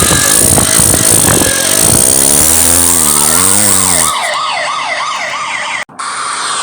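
Cartoon vehicle sound effects: a loud wavering pitched drone over a steady high hiss, then from about three seconds in a fast warbling police-style siren. The sound cuts out abruptly for a moment near the end.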